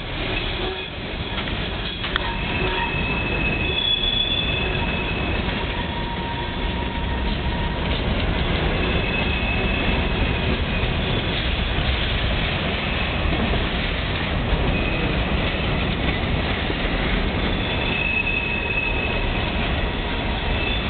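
Union Pacific coal train's hopper cars rolling past close by: a steady rumble of steel wheels on rail, with a high-pitched wheel squeal rising and dying away three times.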